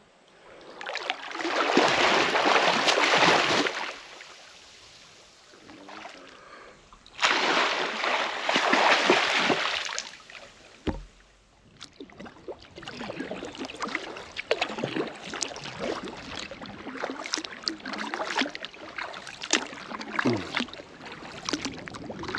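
Kayak being paddled on a river: two long, loud washes of splashing water, then lighter drips and small splashes of the paddle, with a single knock about halfway through.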